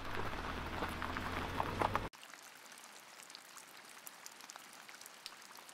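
Road noise of a car driving on a wet street, with a low hum, for about two seconds. Then a sudden cut to steady rain falling on wet pavement: an even patter with scattered drop ticks.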